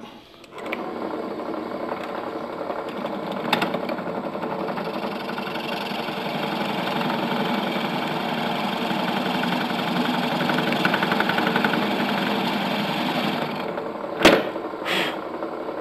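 Electric drill motor running steadily while a countersink bit cuts a screw hole into wood. Two sharp clicks come near the end.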